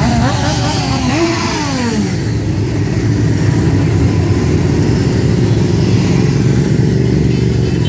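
Motorcycle engines running and revving. In the first two seconds one engine's pitch wavers up and down and then falls away, and a steady low engine rumble carries on after it.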